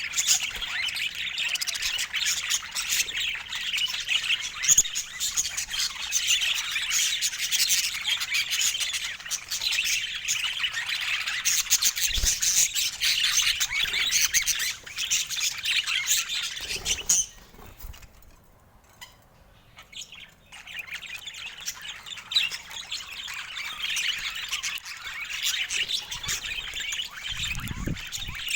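Budgerigars chattering: a dense, continuous stream of chirps, warbles and squawks that breaks off for about three seconds about two-thirds of the way through, then starts up again.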